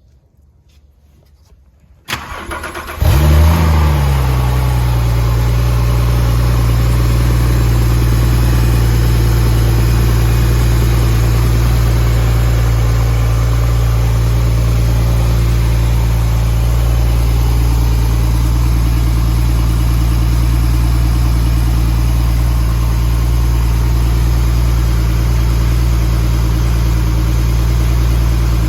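2013 Porsche 911 Turbo S's twin-turbo 3.8-litre flat-six cold-started: about two seconds in the starter cranks briefly, the engine catches with a rev flare that falls away, then settles into a steady fast cold idle.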